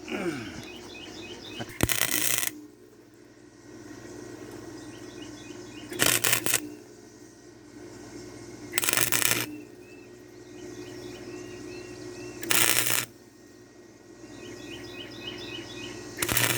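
Arc welder crackling in five short bursts of about half a second each, a few seconds apart: quick tack or stitch welds on scrap steel bed-frame angle iron. A steady low hum runs underneath, and faint high chirps come between the bursts.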